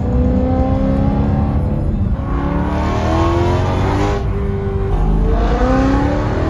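2011 BMW M3 E92's 4.0-litre V8 with an X-pipe and modified OEM mufflers, accelerating hard: its note climbs in pitch in several pulls, each broken by a gear change, about two seconds in and again around four to five seconds in.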